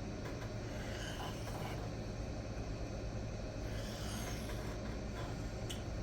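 A steady low mechanical hum of room background, with a few faint light rustles and scrapes over it.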